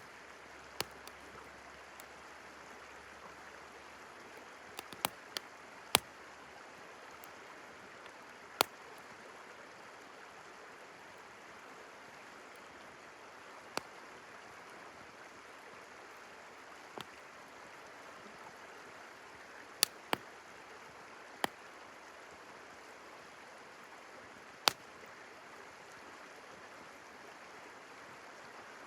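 Campfire crackling, with sharp, irregular pops every few seconds over the steady rush of a flowing river.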